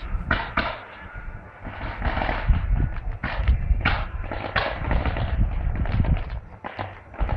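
A public firework display: a rapid run of bangs and crackling bursts over a low rumble from the launches, growing denser about two seconds in.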